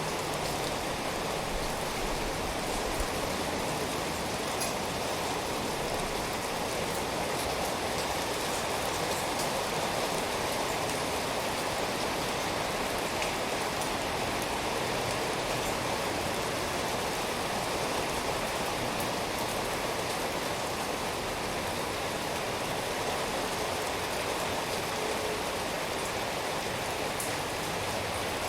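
Steady rain falling, a dense even hiss of drops with a few faint individual drop ticks.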